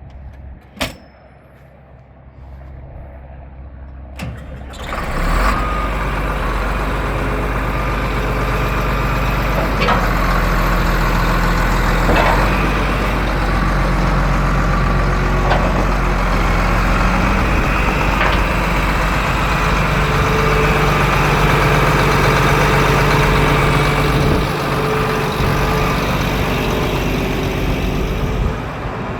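A sharp click about a second in, then the 1976 John Deere 8630's six-cylinder diesel starts about five seconds in and runs steadily.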